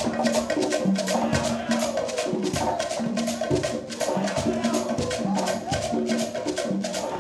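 Live Afro-Cuban rumba: several hand drums played in fast, interlocking patterns, with a sharp wooden click pattern cutting through on top.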